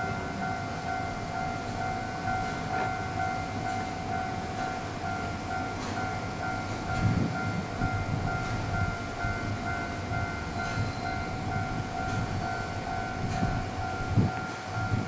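Taiwan Railways EMU700 electric multiple unit departing, with a steady electrical whine of several high tones, one of them pulsing, over a low rumble. Louder low knocks come about halfway through and again near the end.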